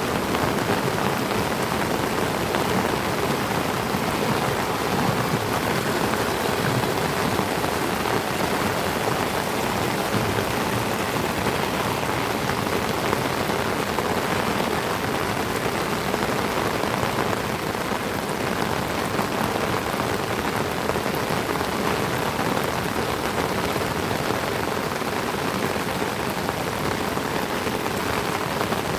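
Heavy tropical rain falling steadily on trees and the ground, an even, unbroken hiss.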